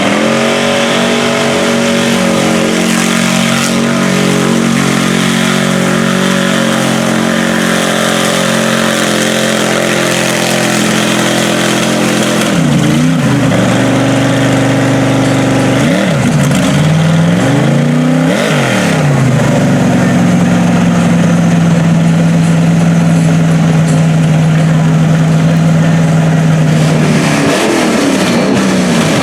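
Mud-bog truck engine held at high revs for long stretches, with the revs dropping and climbing again a few times in the middle and once near the end.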